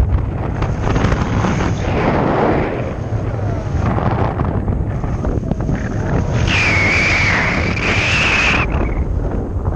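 Heavy wind buffeting the microphone while flying on a paraglider, a loud, steady rumble. A high wavering tone cuts in about two-thirds of the way through for a couple of seconds.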